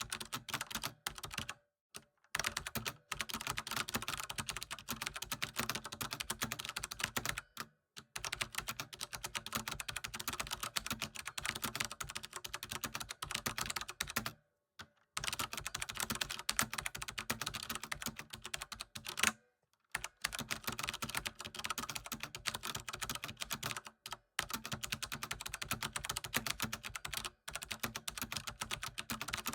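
Computer keyboard being typed on continuously: fast, dense runs of key clicks, broken by a few brief pauses of under a second each.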